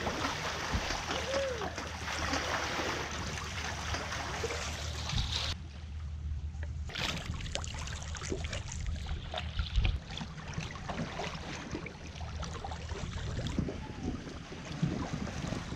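Water rushing and splashing along a sailboat's hull under way, with wind on the microphone and a low steady hum beneath. The sound changes abruptly about five and a half seconds in, and there is a single knock near ten seconds.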